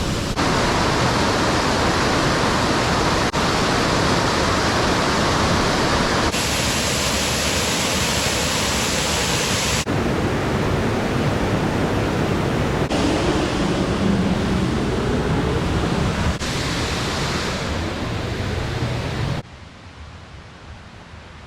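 Steady, loud rushing of a waterfall, in several short clips joined by abrupt cuts; near the end it cuts to a much quieter background.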